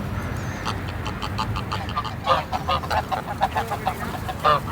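A flock of greylag geese calling, a run of many short honks and cackles that grows busier about two seconds in.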